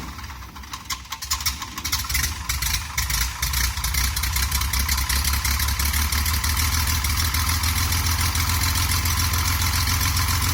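1964 Cessna 172's six-cylinder Continental O-300 engine starting up: uneven firing at first, then running steadily from about four seconds in.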